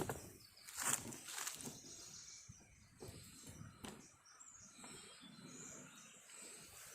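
Quiet outdoor ambience with a few sharp knocks or rustles in the first four seconds, and brief high bird chirps later on.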